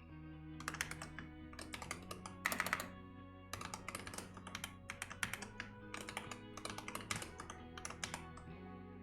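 Fast typing on a computer keyboard, dense runs of key clicks in short bursts with brief pauses, over soft background music with sustained tones.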